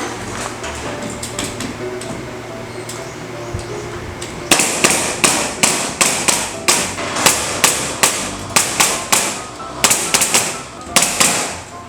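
Nails being driven into wooden ceiling joists: a run of sharp strikes, about two a second, starting about four and a half seconds in, over light background music.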